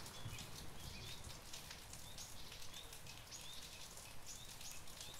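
Faint steady rain, with scattered drops pattering and a few short high bird chirps.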